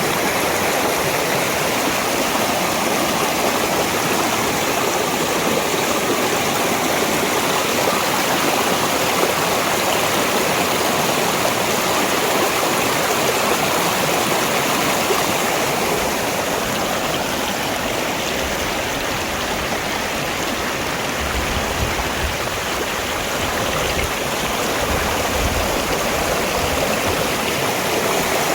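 Valley stream flowing: a steady, even rush of running water.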